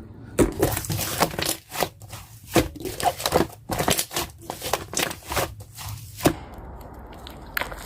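Slime being pressed and squished by hand, giving a quick run of crackling, popping clicks that eases off about six seconds in.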